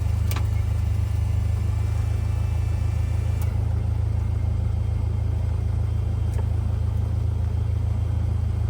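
Cessna 172R's four-cylinder piston engine running at a steady low drone with no change in power, with a few faint clicks.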